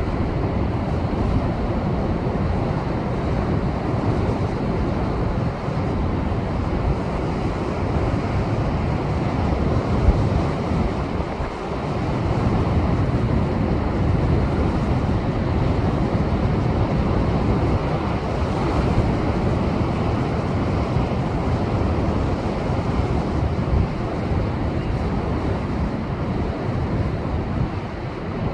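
Heavy surf: rough Pacific swell left by a passing typhoon surging and breaking against shoreline rocks in a continuous roar, with wind buffeting the microphone. The roar eases briefly about eleven seconds in, then builds again.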